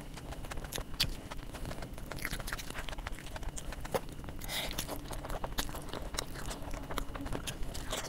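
Close-miked eating: a soft stuffed bun is chewed with many small wet mouth clicks. About halfway through comes a wet tearing as fingers break a curry-soaked samosa in chickpea curry, then the samosa is chewed.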